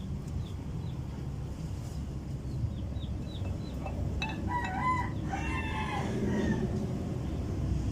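A rooster crowing once, starting about four seconds in and lasting a couple of seconds, over a steady low background hum. Faint high chirps repeat during the first two seconds.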